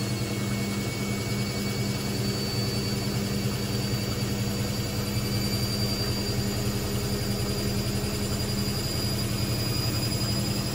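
Hoover VisionTech washing machine spinning: a steady drum and motor hum, with a thin high motor whine that rises slowly in pitch as the spin builds.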